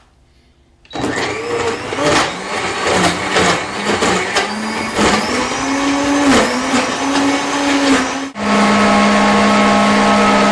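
Omniblend high-speed blender starting about a second in and crushing ice into a thick frozen mixture, with many rattling knocks of ice chunks and a motor pitch that wavers and rises. About eight seconds in the sound dips briefly, then settles into a steady, even hum.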